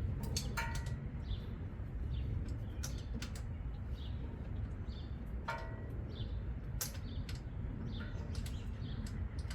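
Birds chirping a few times over a steady low background rumble, with scattered short sharp clicks.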